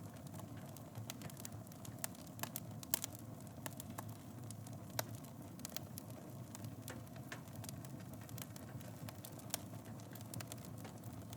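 Wood fire in a fireplace burning with a steady low rumble and frequent sharp crackles and pops, the loudest about three seconds in.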